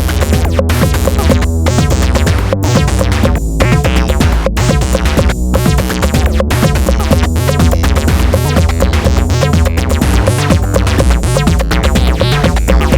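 Eurorack modular synthesizer playing an acid-style sequenced pattern: Make Noise DPO and XPO oscillator lines through lowpass and bandpass filters over a heavy steady bass, with a drum-machine beat and diced granular textures. The upper range briefly drops out about every two seconds in the first half.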